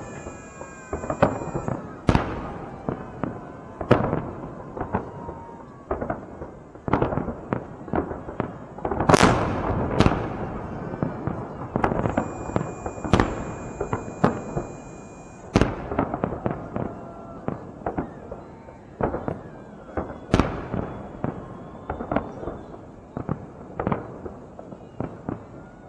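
Fireworks display: a continuous run of shell bursts and bangs, some single and sharp, others in quick clusters, the loudest a few seconds before the middle and again about two-thirds through.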